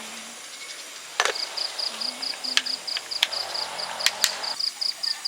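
Cricket chirping in a high, even pulse of about five chirps a second, starting about a second in. Several sharp clicks and knocks sound over it.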